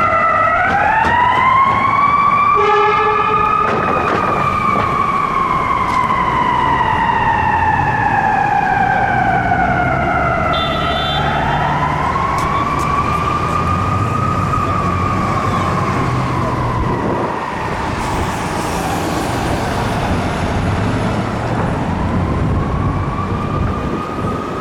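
Ambulance siren in a slow wail, its pitch rising and falling over several seconds at a time, over the low rumble of the vehicle. A short horn blast sounds about three seconds in.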